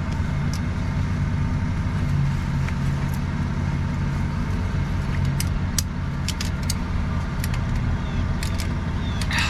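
Tow truck engine idling steadily, with a scattering of light, sharp clicks and clinks, more of them in the second half.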